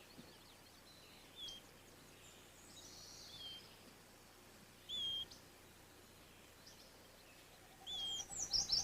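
Wild birds calling: short, high whistled chirps a couple of seconds apart, then a quick run of chirps near the end, over faint outdoor background.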